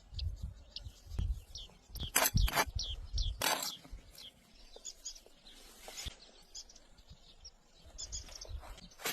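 Birds chirping over and over with short high calls. A few brief, louder noisy strokes come about two to three and a half seconds in.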